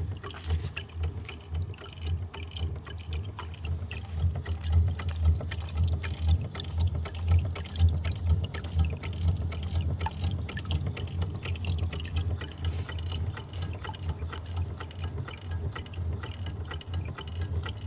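Model Rider-Ericsson hot air pumping engine running: a rhythmic mechanical clicking and clatter from its linkage over a steady low hum, with water trickling and splashing as it pumps.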